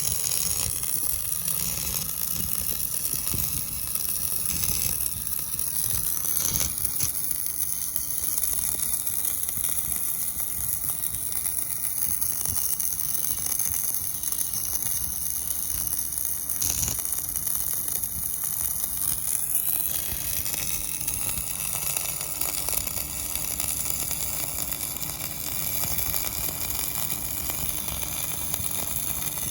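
Electric welding arc on stainless steel, a steady crackling sizzle that runs on without a break, its tone changing a little about twenty seconds in.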